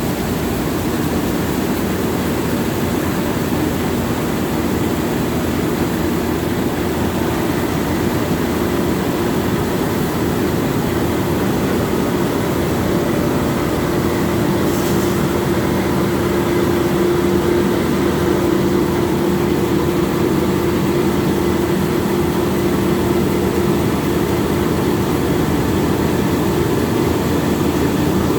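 Heavy engine running steadily, a continuous drone with a steady hum that grows stronger for about ten seconds in the middle.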